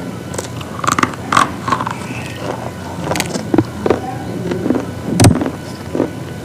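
Sharp crunches of brittle slate pieces breaking, about seven irregular strikes, the loudest near the end, over a steady low hum.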